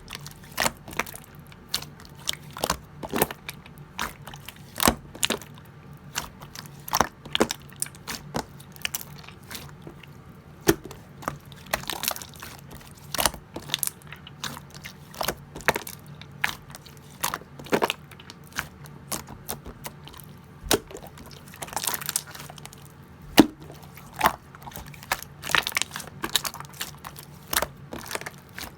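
Clear slime being squished and pressed by hand, giving irregular sharp clicks and pops, several a second, some louder than others.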